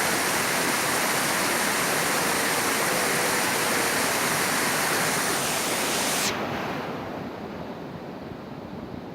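Steady, dense rush of falling water from a tall waterfall. About six seconds in, the sound abruptly turns duller and quieter.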